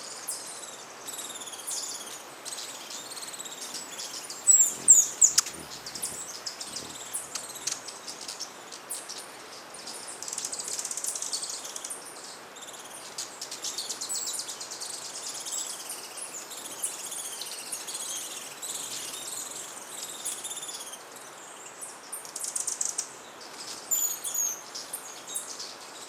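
Many hummingbirds at a busy feeder, giving high, short squeaky chips and twitters that overlap almost without pause, with louder bursts about five seconds in and near the end.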